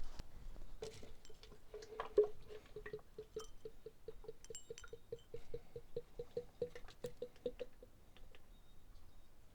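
Motor oil glugging out of a quart bottle into a funnel in the engine's fill neck, in an even run of about four to five glugs a second that stops near the end as the bottle empties. A few light plastic clicks and knocks come with it.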